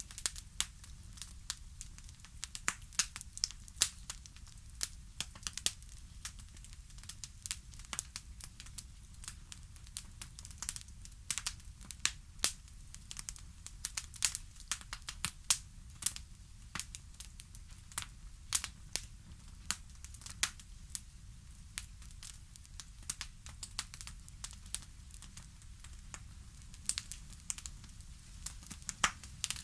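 Wood fire crackling: a steady low rumble under frequent irregular sharp pops and snaps.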